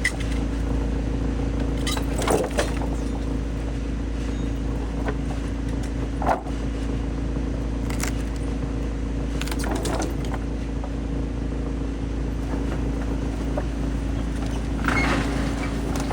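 Heavy-duty industrial wood chipper running steadily with a constant low drone, broken by a handful of short knocks and clatters.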